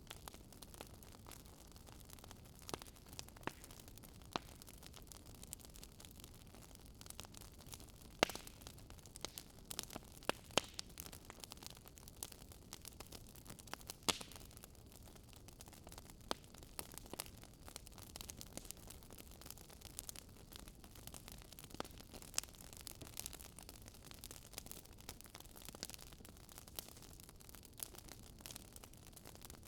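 Wood fire burning in a fireplace, crackling with irregular sharp pops over a soft steady hiss. A few louder pops stand out in the first half.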